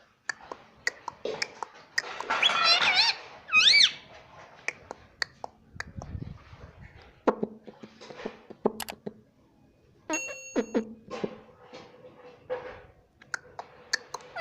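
Indian ringneck parrot chattering and calling, with a few short arching squawks about two to four seconds in, scattered sharp clicks, and quieter mumbling chatter in between.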